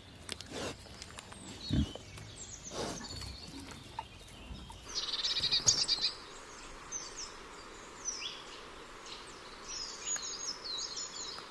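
Small songbirds calling and singing in a forest: a rapid high trill about five seconds in, then many short, high, falling chirps. A couple of low thuds come in the first few seconds.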